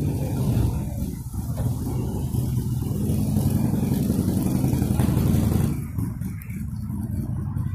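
A car engine running, a steady low rumble that is loudest around the middle and drops off about six seconds in.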